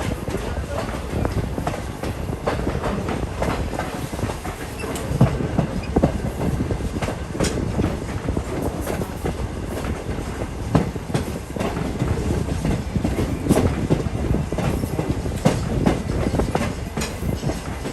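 Passenger train cars rolling along the track, heard from aboard: a steady rumble of wheels on rail with frequent irregular clicks and knocks as the wheels cross rail joints and the cars rattle.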